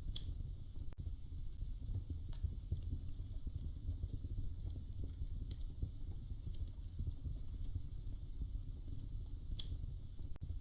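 Wood fire in a fireplace crackling: scattered sharp snaps and pops over a steady low rumble, with a louder pop just after the start and another near the end.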